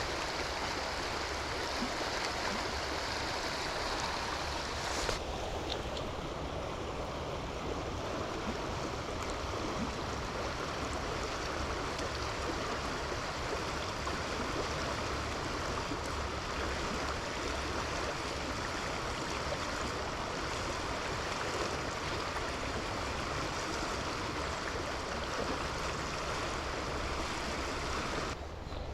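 Steady rushing of flowing river water. Its tone changes abruptly about five seconds in and again near the end.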